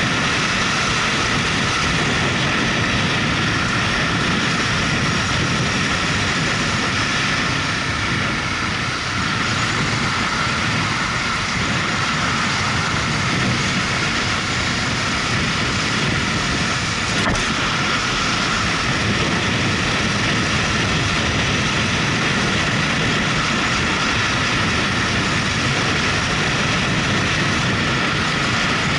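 Motorcycle running at a steady road speed, its engine buried under a loud, even rush of wind and road noise on the onboard microphone.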